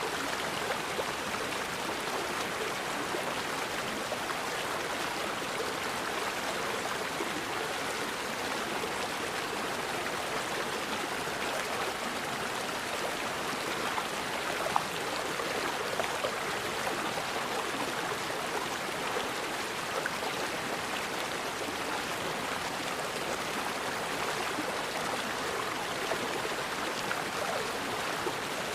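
Forest river flowing steadily, an even rush of running water with small splashes and trickles, including one slightly louder splash about halfway through.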